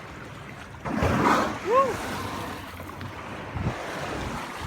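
Water slapping and washing around a small boat on choppy sea, with wind on the microphone. A louder rushing surge comes about a second in, followed by a brief rising-and-falling vocal sound.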